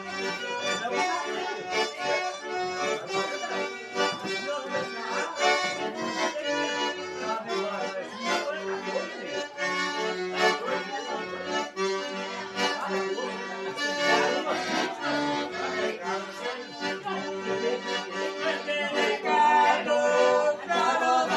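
Accordion playing a traditional tune with a steady beat, its held chords sounding under a moving melody.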